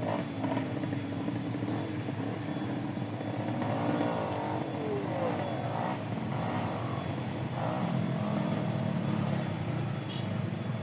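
A small engine running steadily, its pitch sliding up and down briefly about four seconds in.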